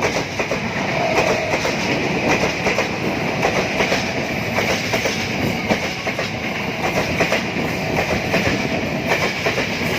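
A train passing close by on the track, its wheels clattering steadily over the rails with a continuous high hiss.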